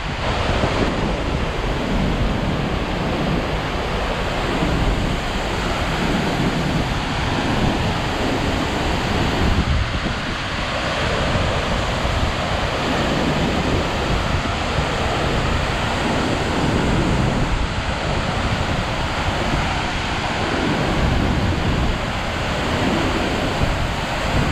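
A 110-foot waterfall in heavy flow roaring steadily: a dense rushing noise with a deep rumble underneath and slow swells in loudness.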